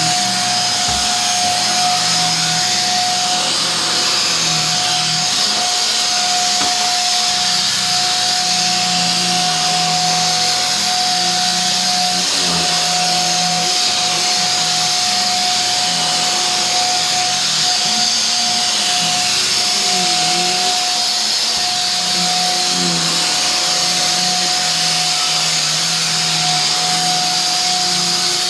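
A motor-driven machine, such as a vacuum cleaner, running steadily: a constant high whine over a loud rushing hiss, with a wavering low hum underneath.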